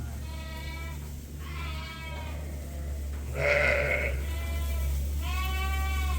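Sheep bleating in a barn: about five separate calls one after another, the loudest a harsher bleat about halfway through, over a steady low hum.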